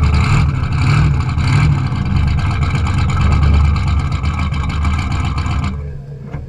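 Classic car engine under hard throttle, revving in surges at first and then pulling steadily, before it falls away sharply near the end and leaves a lower, steady engine hum.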